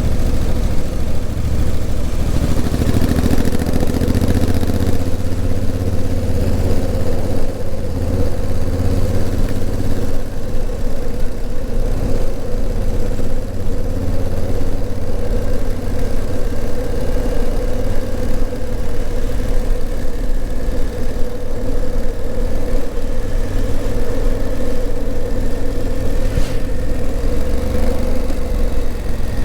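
Honda CRF1000L Africa Twin's parallel-twin engine running at a fairly steady speed while the motorcycle is ridden, a low steady drone with little change in pitch. A short click comes near the end.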